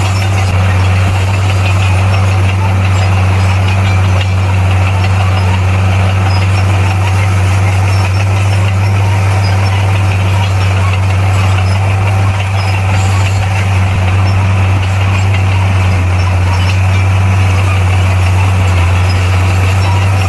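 Heavy earthmoving machine's diesel engine running steadily at an even pitch, with a strong low hum.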